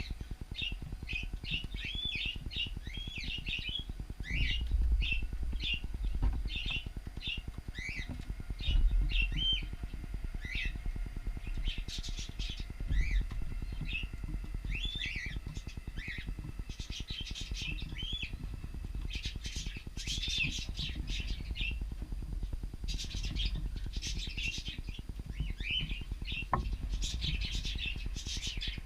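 Several cockatiels chirping and calling in quick, overlapping short notes throughout, busiest in the second half. A low rumble underneath swells twice, about five and nine seconds in.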